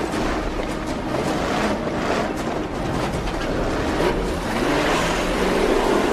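Film sound of a heavy car on oversized tyres driving over rough ground, its engine running under a dense rumble of road and dust noise. The engine pitch rises about four seconds in.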